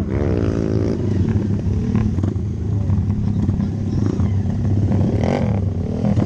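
Hero Impulse dirt bike's single-cylinder engine revving up in the first second, then running on under throttle with the pitch rising and falling slightly. A short rushing burst comes about five seconds in.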